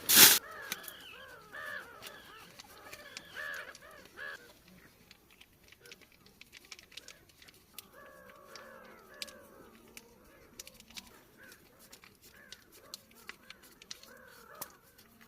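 Brown-headed gulls calling, harsh crow-like cries coming in runs, several together. There is a loud sharp crinkle right at the start and faint scattered clicks of handling.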